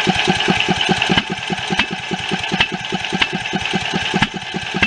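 Lawn tractor's electric starter cranking the engine at full throttle with no choke, a steady whine over an even chug of about six compression strokes a second, with a few sharper clicks. The engine turns over but never catches: a no-start that the owner cannot pin down, since it gets plenty of spark, though he has suspected an intermittent coil.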